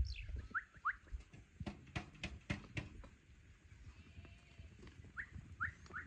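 Short rising bird chirps, two about half a second in and three more near the end, over scattered soft knocks and thumps from calves moving about in a sandy pen.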